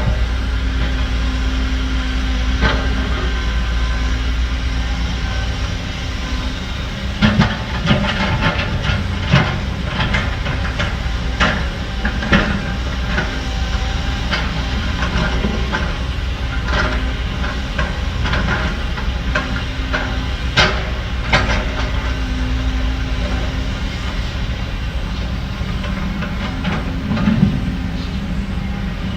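Heavy diesel earthmoving machinery running steadily, with a series of sharp metallic clanks and knocks through the middle.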